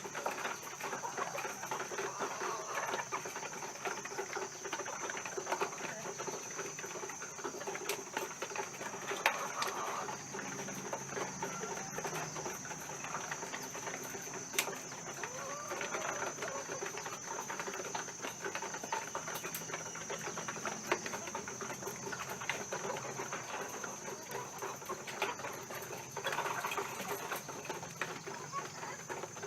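Laying hens clucking continuously, with a steady high-pitched whine underneath and a few sharp clicks.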